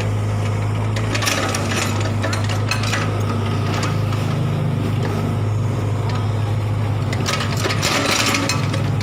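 A steady low machine hum, with frequent irregular scraping and clinking of hand tools during road repair work.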